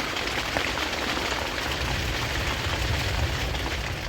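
Heavy rain falling steadily, a dense hiss dotted with small drop taps, over a low rumble.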